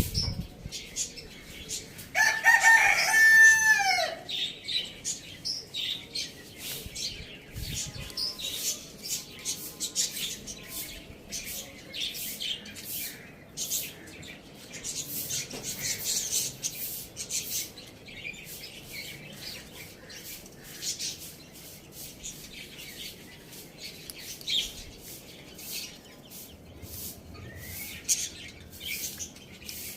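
A rooster crows once, about two seconds in, the call lasting about two seconds and falling in pitch at the end. Small birds chirp rapidly and continually throughout.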